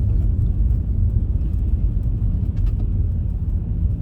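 Steady low rumble of a car driving along a highway, heard from inside the cabin: road and engine noise.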